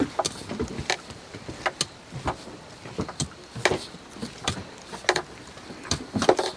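A group of people lightly patting their bodies and legs with their hands: many short, soft pats at irregular spacing, a few a second.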